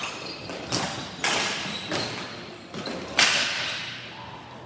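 Ball hockey play: several sharp knocks of sticks and the plastic ball, each ringing on briefly in a large hall. The loudest crack comes about three seconds in.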